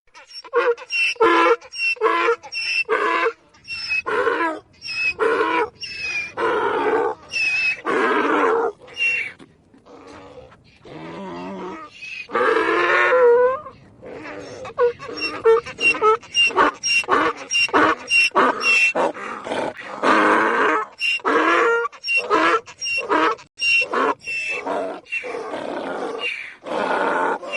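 Donkey braying over and over: a long run of rapid, repeated calls, with a few longer drawn-out calls partway through.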